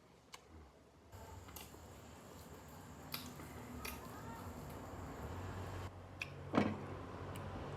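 Close-miked eating sounds: wet chewing with a few sharp clicks, the loudest about six and a half seconds in.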